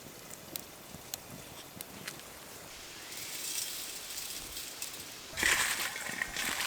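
Hot oil in a pan hissing faintly, with scattered light crackles. About five and a half seconds in comes a sudden loud sizzle, typical of food going into the hot fat, and it carries on to the end.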